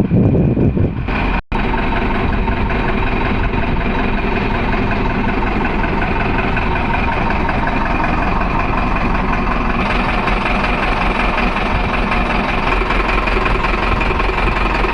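Tata LPT 1109 truck's diesel engine idling steadily. The sound drops out briefly about a second and a half in, and is heavier in the low end during the first second.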